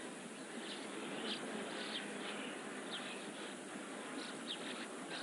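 Small birds chirping outdoors: short, quick calls every half second or so over a steady background hiss.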